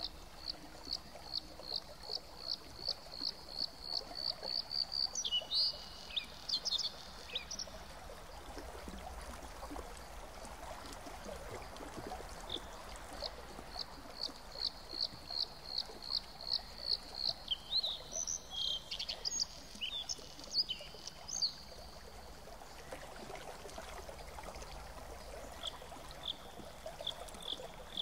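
A songbird singing runs of short high notes that speed up, each run ending in a brief tangle of notes, three times, over a faint steady background hiss.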